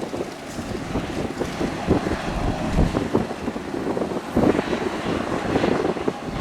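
Excavator's diesel engine running at work, with irregular knocks and clatter throughout.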